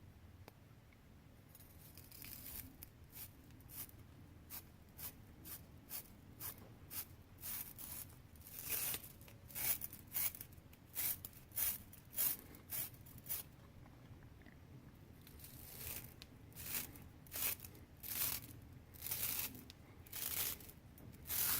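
Hand brush scrubbing the inside of a brass valve body in quick back-and-forth strokes, nearly two a second and growing louder. The strokes pause for about two seconds past the middle, then start again.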